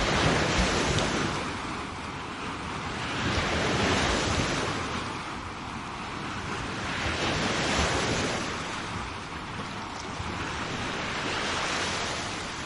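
Sea waves breaking and washing up the shore, the surf swelling and fading about every four seconds.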